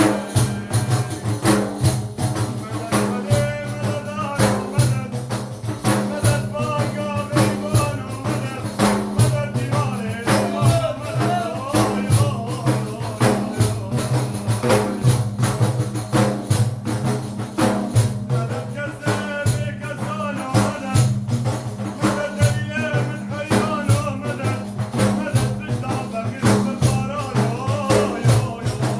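Sufi madih praise song: a man's voice sings a wavering, melismatic line over a fast, steady beat on frame drums with jingles.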